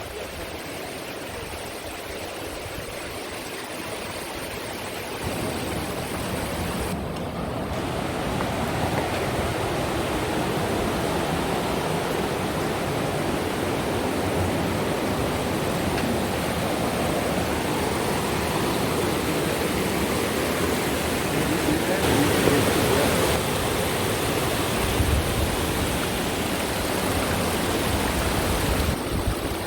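Rushing river water, the Green River running over rapids: a steady, dense rush that grows louder over the first several seconds and then holds.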